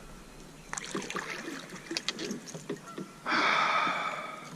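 Handling noises on a kayak: scattered knocks and clicks, then a rush of noise about three seconds in that lasts about a second and fades.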